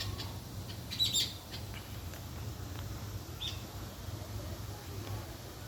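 Small birds chirping: a quick burst of high, rapid chirps about a second in and one short chirp a couple of seconds later, over a low steady hum.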